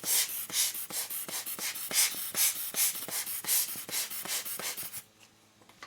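Rapid puffs of air blown over a camera lens element to clear away small hairs, about four or five a second, stopping about five seconds in.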